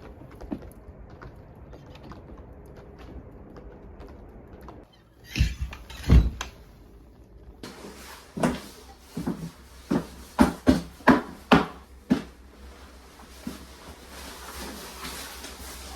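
Two heavy thuds, then a quick run of about eight wooden-sounding knocks a couple of seconds later, over a steady background hiss.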